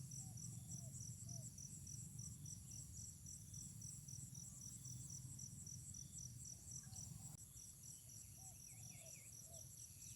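Insect chorus trilling steadily in a rapid high-pitched pulse, with a few faint short chirps in the second half.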